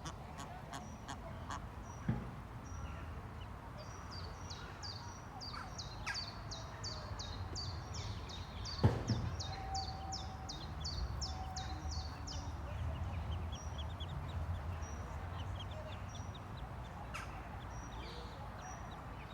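Ducklings peeping: a quick series of short, high, falling peeps, about two to three a second, through the middle, then fainter peeps near the end. A sharp knock sounds about nine seconds in, with a smaller one about two seconds in, over a low rumble.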